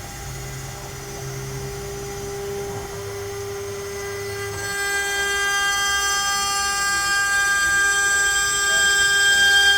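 CNC router milling letters into pine: a steady whine of several tones from the spindle and stepper motors, with cutting noise under it. About halfway through the tones shift to a louder, higher set as the machine changes its move.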